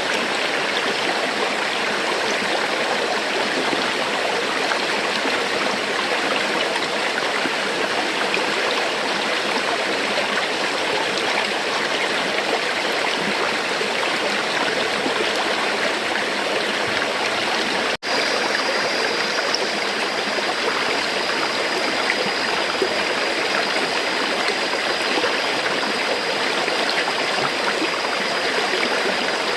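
River water flowing steadily, an even rushing with a gurgling texture. It cuts out for an instant about two-thirds of the way through, then carries on with a faint high steady tone under it.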